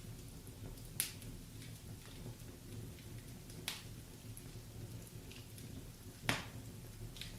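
Wood fire crackling in a fireplace: a low steady rumble of flames with sharp pops about a second in, midway and near the end, the last the loudest.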